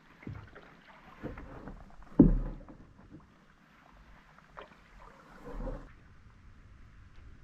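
Canoe paddle strokes in the water, a handful of separate strokes about a second apart, the loudest one about two seconds in.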